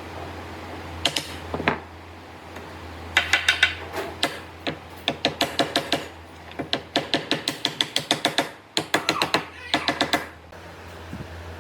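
Quick runs of sharp taps or clicks, about five a second, coming in several bursts with short pauses between, over a low steady hum.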